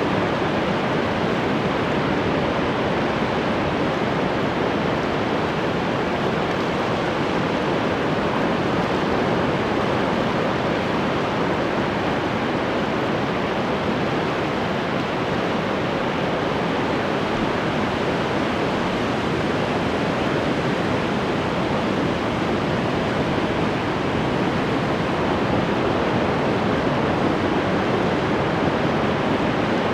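Ocean waves breaking on the shore, heard as a steady, unbroken wash of surf with no single wave standing out.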